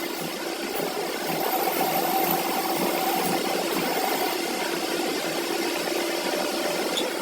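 Workshop machine running steadily: a motor hum with a steady whine over a mechanical rush, a little louder from about a second in.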